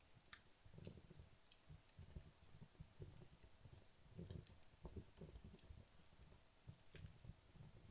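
Wood logs burning in a fireplace: faint, irregular crackles and pops from the fire, with soft low thuds between them.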